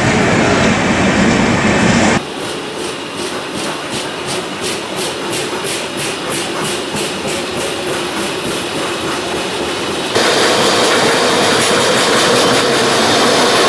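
Passenger train coaches running past a station platform: a steady rumble of wheels on rails, with rhythmic clickety-clack as the wheels cross rail joints, about two or three clicks a second. The sound changes level abruptly twice, about two seconds in and about ten seconds in.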